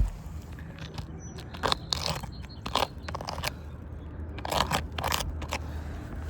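Several short scraping, crunching strokes on asphalt composition roof shingles, with most of them clustered between about a second and a half and five and a half seconds in.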